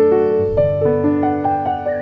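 Background piano music, a gentle melody of notes following one another every quarter to half second.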